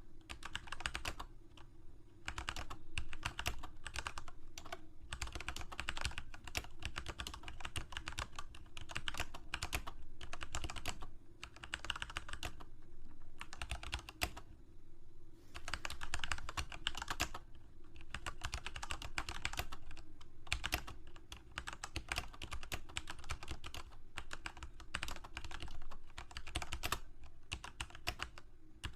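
Typing on a computer keyboard: rapid key clicks in runs of a few seconds, broken by brief pauses, the longest about two seconds near the middle.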